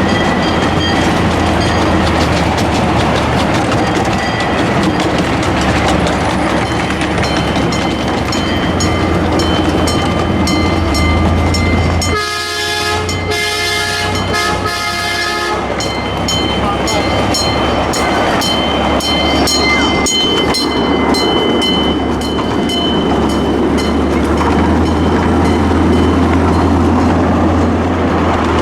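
Diesel train running, its wheels clicking steadily over rail joints under a constant engine drone. About twelve seconds in, its multi-chime air horn sounds a chord for about three and a half seconds.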